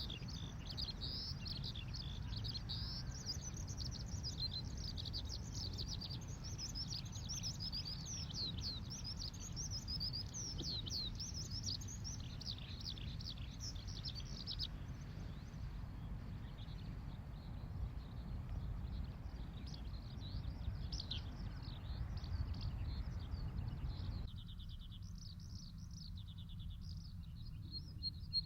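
Skylark singing a long, unbroken stream of rapid high chirps and trills over a low rumble of breeze. About halfway through the song turns fainter, and near the end a quick, even run of high ticks comes in.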